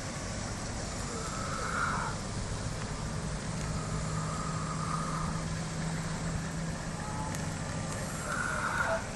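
Steady outdoor background noise with the low hum of a motor vehicle's engine, plus a few faint distant high calls.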